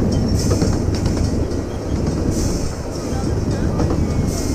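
Miniature ride-on train rolling along its track: a steady low rumble of wheels on rail, with a short hiss recurring about every two seconds.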